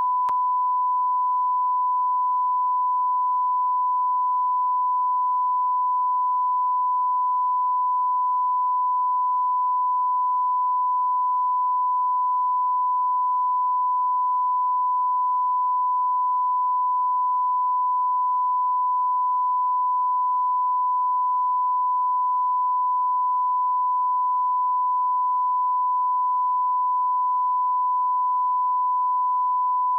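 Continuous electronic sine-wave beep, one unchanging high pitch like a standard test tone, held steady throughout, with a faint click just after the start.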